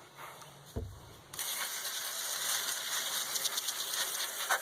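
Spray of water hissing steadily onto a window air conditioner's dirty coils, wetting them before coil cleaner goes on; it starts abruptly about a second in, just after a short low thump.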